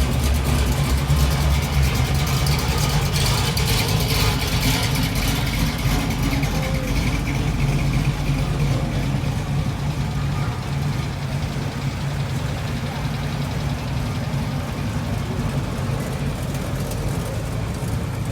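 A car engine running steadily with a low hum, easing off slightly in the second half.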